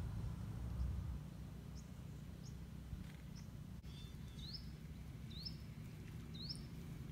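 A small bird repeating a short, high chirp about once a second, starting about two seconds in, the later chirps sweeping upward. Underneath is a steady low rumble of outdoor background noise.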